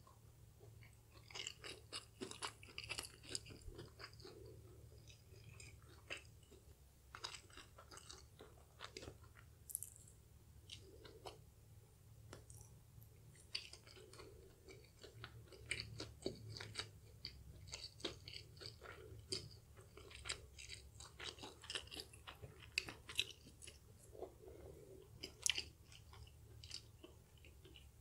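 Close-up chewing of crispy fried chicken tenders, with many sharp, irregular crunches of the breading.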